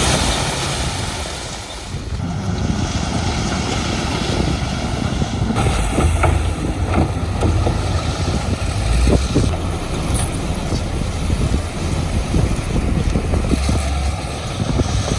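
Heavy diesel earthmoving machinery running steadily with a deep low rumble, with a few short knocks about halfway through.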